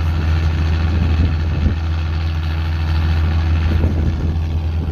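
Large engine idling steadily, just after a cold start.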